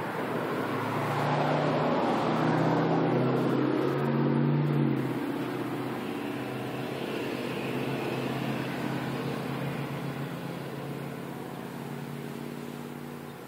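A motor vehicle's engine passing by, loudest in the first few seconds and then fading slowly away.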